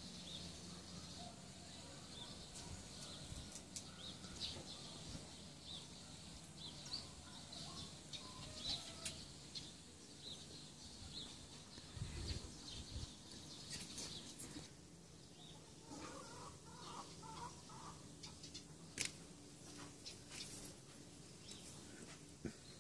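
Faint bird calls: repeated short high chirps, and a run of clucking calls about two-thirds of the way through. A few light clicks or taps sound between them.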